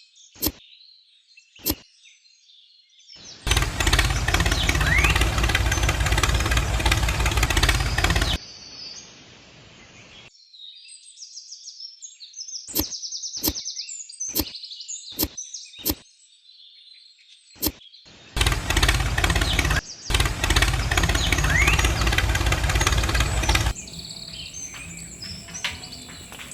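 A motor running loudly with a buzzing drone, twice for about five seconds each, starting and stopping abruptly. Birds chirp in the gaps, along with a few sharp clicks.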